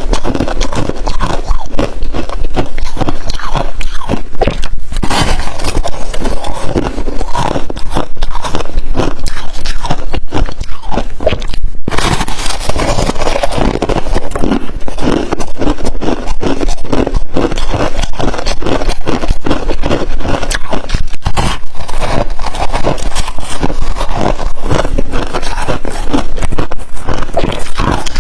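Freezer frost crunching and scraping close to the microphone, a dense, irregular run of crackles with a short break about twelve seconds in.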